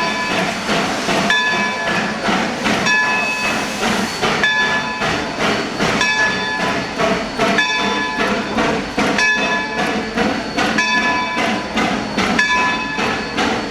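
Baldwin 0-6-0 steam locomotive moving off slowly, its bell ringing at a steady beat, about once every second and a half, over the locomotive's working noise.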